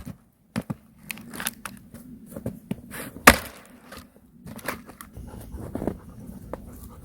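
Wood being struck and worked with a hand tool: a series of knocks and clicks, with one loud sharp strike about three seconds in.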